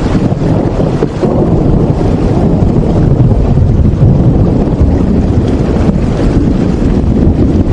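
Steady, dense rain noise, heaviest in the low end with a deep rumble, with no single drops or tones standing out.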